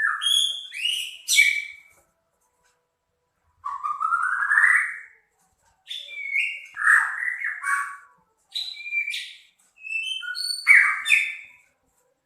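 White-rumped shama of the Medan type singing rough, harsh phrases: about five bursts of mixed whistles and rasping notes, one with a rising sweep, separated by short pauses.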